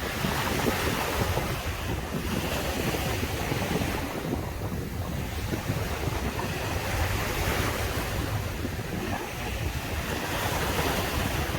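Caribbean surf: waves breaking and washing up a sandy beach, the hiss swelling and easing every few seconds over a steady low rumble, with wind buffeting the microphone.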